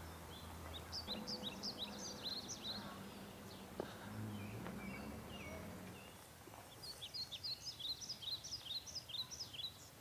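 A small songbird singing two quick runs of high chirping notes, the first about a second in and the second from about seven seconds, over faint outdoor background noise with a low hum in the first half.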